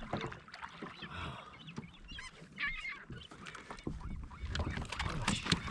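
Bird calls: short warbling honking cries, clearest about halfway through, over scattered knocks and water noise from a kayak.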